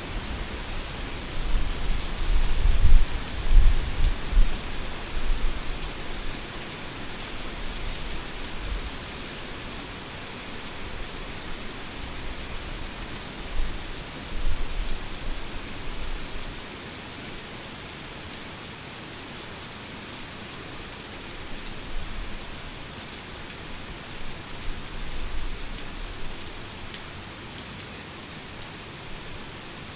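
Heavy rain pouring steadily, a dense even hiss. Low thunder rumbles under it, strongest in the first few seconds and returning more faintly a few times later.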